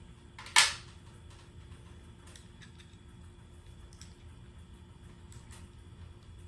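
A single sharp knock or click about half a second in, with a brief ring after it, then a few faint scattered clicks.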